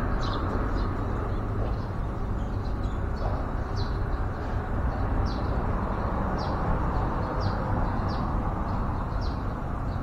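A small bird chirping: short, high, falling chirps repeated about once a second, over a steady low rumble.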